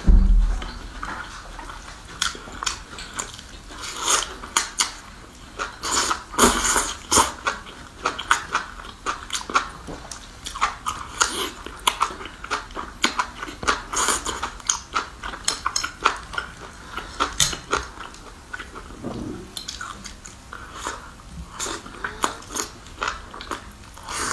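Close-miked eating sounds: a person biting and chewing spicy skewered food and green onion stalks, a quick irregular run of mouth clicks, smacks and crunches.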